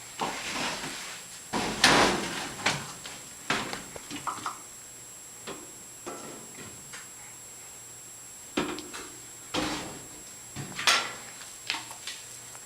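Irregular household knocks and bumps of doors or drawers being opened and shut, several in the first few seconds and a few more near the end, with quiet stretches between.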